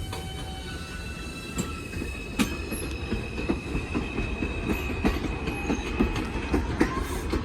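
IRT subway train (a 4 train) moving along the track: a steady rumble with a high wheel squeal, and from a couple of seconds in a regular clacking of wheels over rail joints.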